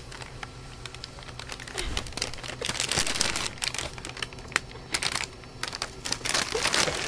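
Thin plastic bag crinkling and crackling as a cat licks and mouths it. The sound is faint at first, then comes in irregular bursts from about two seconds in, loudest around three seconds in and again near the end.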